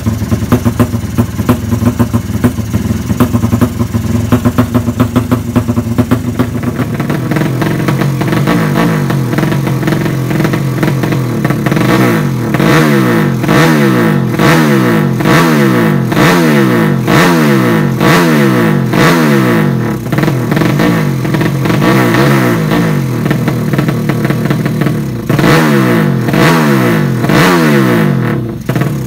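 Drag-racing motorcycle engine running rough and loud, then revved over and over in quick throttle blips from about seven seconds in, each one a rising sweep in pitch.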